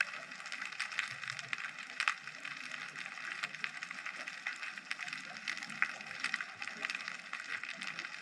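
Underwater ambient sound picked up by a GoPro in its housing: a dense, steady crackle of small clicks and pops, with a few sharper clicks standing out.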